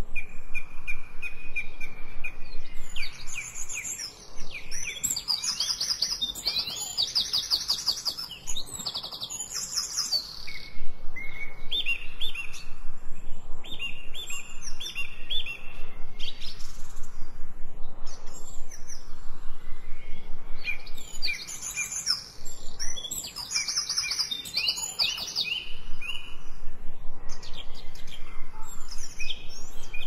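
Several songbirds chirping and singing, their calls overlapping in runs of quick repeated notes and trills.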